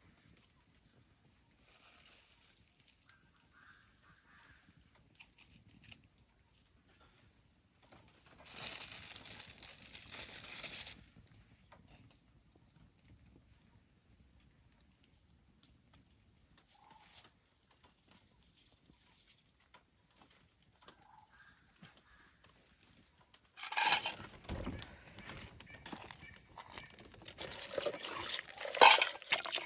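Insects trilling steadily at a high pitch, with a rustle of leaves about a third of the way in. Near the end a gust of wind buffets the microphone and the first rain of a storm starts pattering on leaves and bamboo, quickly growing louder.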